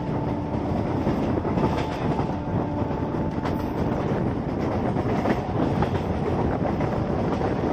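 Electric local train running at speed, heard from inside the coach: a steady rumble and rattle of wheels on track, with a faint steady whine in the first few seconds.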